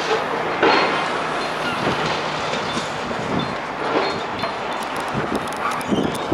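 Heavy demolition machinery working through rubble: continuous grinding and clanking, with scattered knocks and short metallic squeals.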